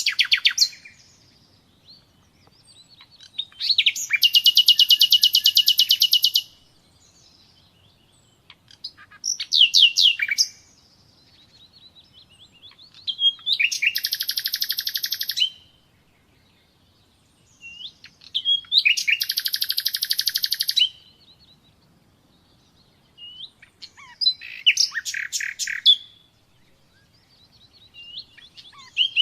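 Common nightingale singing: phrases of two to three seconds of rapid, high-pitched repeated notes and trills, separated by pauses of a few seconds, about six phrases in all.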